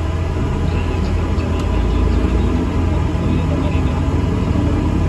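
Steady low rumble inside an ADL Enviro 400 MMC double-decker bus as it runs, engine and road noise together, growing slightly louder about two seconds in.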